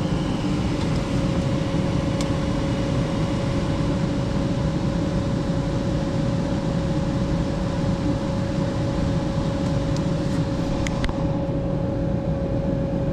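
Ultra-low-NOx gas furnace running with its burners lit: a steady whoosh and hum with one steady tone held throughout, and a few faint clicks about two seconds in and near ten to eleven seconds.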